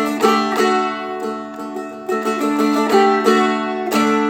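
Seagull Merlin, a four-string fretted dulcimer, played: a run of melody notes picked over open drone strings that ring steadily underneath, with a fresh strum about four seconds in.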